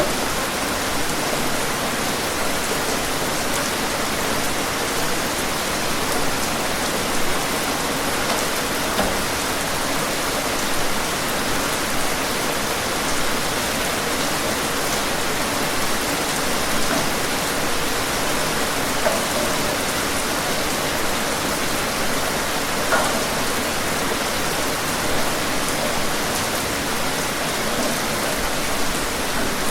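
Steady heavy rain falling on a surface: a constant hiss with scattered louder drops.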